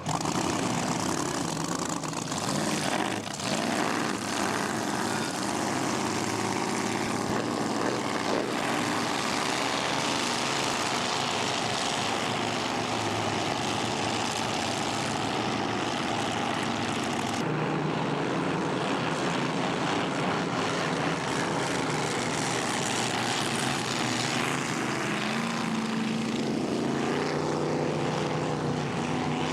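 Racing boat engines running at speed on the water: a steady, loud drone whose pitch bends up and down a few times as boats pass. The sound changes abruptly a little past the middle.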